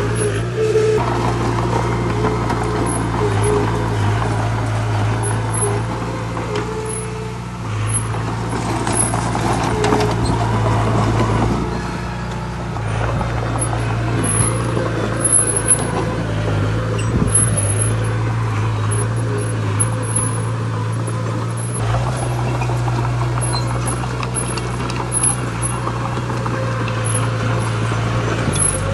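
Heavy diesel engine of earthmoving machinery running continuously, a steady low drone whose note shifts a few times, over a rough noisy rumble.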